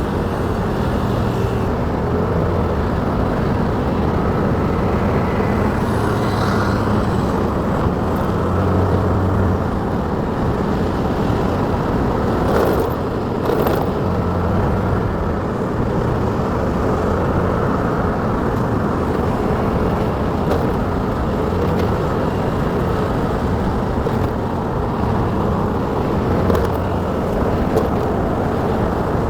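A motorcycle riding through city traffic: steady engine and road rumble, with a couple of brief higher sounds about halfway through.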